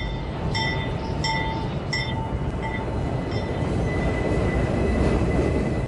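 Train running with a steady low rumble. Over the first three seconds or so, five or six short high ringing tones repeat about every 0.7 s and fade, and a thin steady high whine follows.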